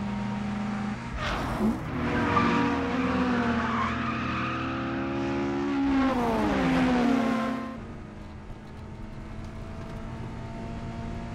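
Two sports-car engines, a Toyota AE86 Sprinter Trueno and a Honda Civic EK9, revving hard side by side under acceleration. About seven seconds in, the revs fall away sharply and the sound drops to a quieter, steady engine hum.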